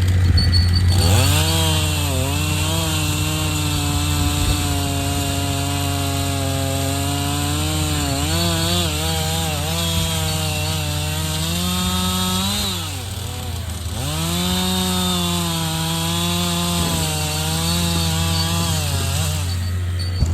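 Two-stroke chainsaw held at full throttle and cutting through a maple log, its pitch sagging under load. It drops off about two-thirds of the way through, then revs back up for a second cut and eases off near the end. A steady low engine hum runs underneath.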